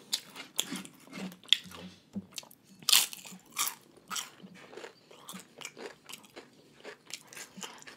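Close-miked chewing of crunchy fried wonton chips topped with ahi poke, in irregular crunches. The loudest crunches come about one and a half and three seconds in.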